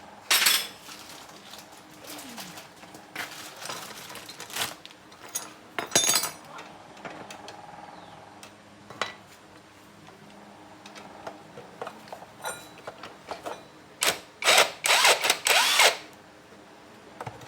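Workshop tool noise: a power tool run in several short, loud bursts, the longest cluster near the end, with small clicks of metal tools in between.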